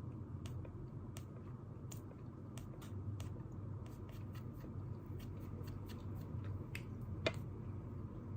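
Scattered light clicks and taps, roughly one or two a second, with one louder click near the end, over a steady low room hum.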